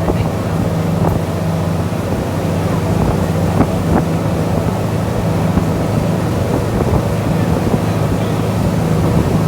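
Tour boat's engine running steadily, with wind buffeting the microphone and a few faint knocks.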